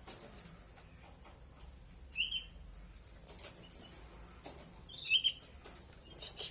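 Pet cage bird giving short high chirps, a couple of them, with a louder sharp chirp near the end.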